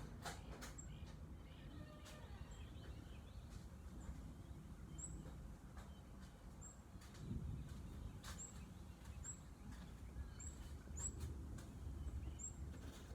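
Faint outdoor ambience with a steady low rumble under it, and birds calling. From about five seconds in, one bird repeats a short, very high chirp roughly once a second.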